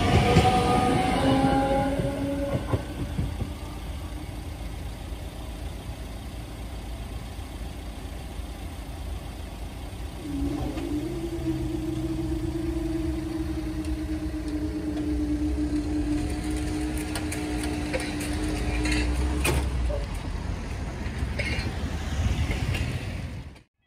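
A train passing and fading away, its tones falling slowly in pitch as it goes. Then road vehicles start moving over the level crossing, one with a steady engine note held for several seconds. The sound cuts off suddenly near the end.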